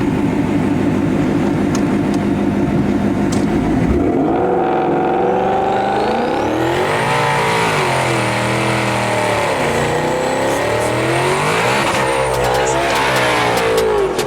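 Supercharged or twin-turbo V8 performance-car engine idling steadily, then revved up and down several times from about four seconds in. A high whine rises with the revs, holds, and drops near the end.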